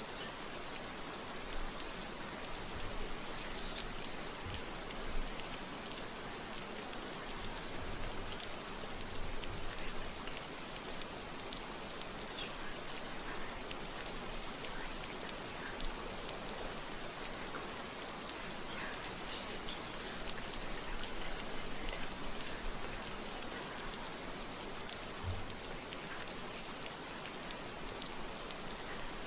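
Steady rain falling: an even hiss with scattered small drop ticks and a few soft low bumps.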